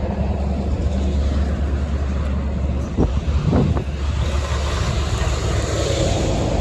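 Road vehicle driving: a steady low engine and road rumble with wind noise, and a brief tone that rises and falls about three seconds in.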